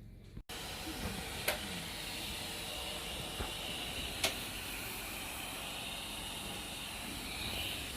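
Vacuum cleaner running steadily on carpet, with a couple of sharp clicks of grit being sucked up.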